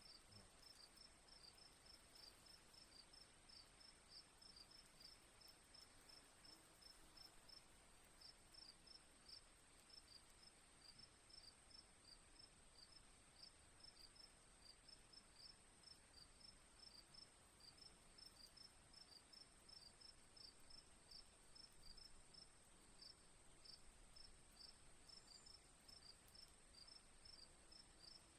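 Faint crickets chirping in a fast, regular series of short chirps, over a steady high-pitched hum.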